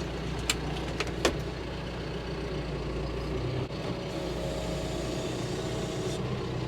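Tractor engine running steadily, heard from inside the closed cab, with a few sharp clicks in the first second and a half and a faint thin whine in the second half.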